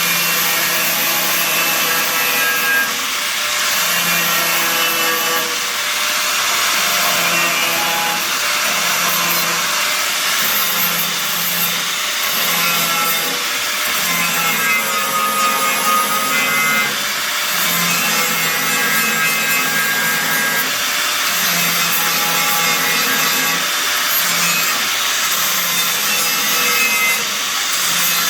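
Angle grinder grinding the sheet steel of a Ford Cortina Mk V floor panel, running continuously with its whine rising and falling as it is pressed into the metal.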